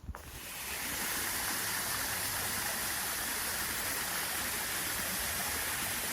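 Small waterfall pouring over a rock ledge: a steady rush of falling water that swells in over the first second and then holds even.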